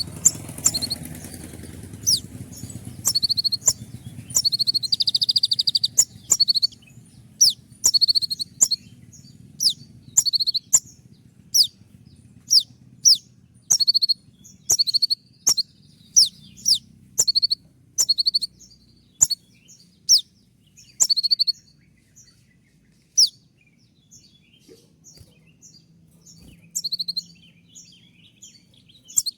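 Van Hasselt's sunbird (kolibri ninja, 'konin') singing in a rapid 'shooting' style. It gives a long run of sharp, high chirps, each sweeping downward, interspersed with short buzzy trills.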